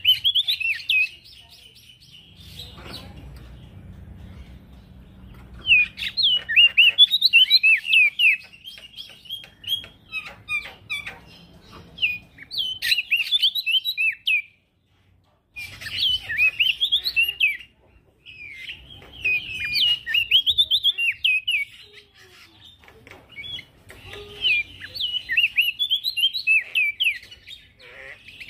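A male prenjak daun singing in fast runs of high, chirping notes, phrase after phrase with short pauses between them. A low rumble sits under the first few seconds.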